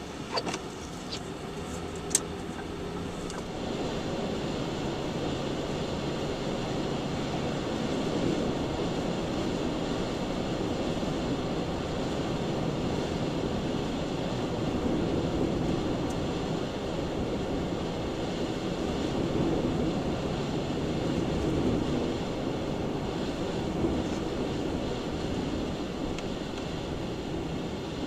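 Blizzard wind buffeting a car, a steady rushing rumble that swells and eases in gusts. A few sharp clicks in the first two seconds.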